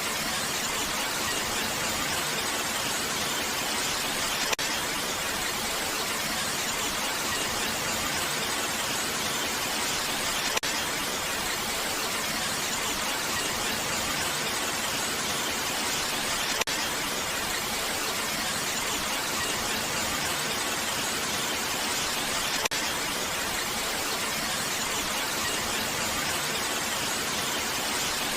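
Steady rain sound, an even hiss that sits mostly in the upper range, with a brief tick about every six seconds.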